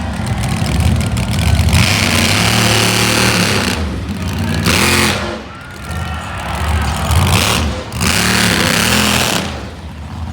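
Monster truck engine running loud and rough, surging hard several times as the throttle is opened and eased off.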